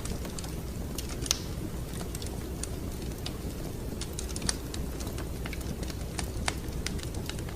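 Wood fire crackling in a fireplace: irregular sharp pops and snaps over a steady low rumble, with a louder pop about a second in.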